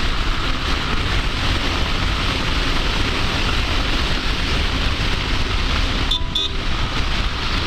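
Steady wind rush and road noise on the microphone while riding a Bajaj Avenger motorcycle at speed, with the engine's rumble underneath. A brief two-note beep about six seconds in.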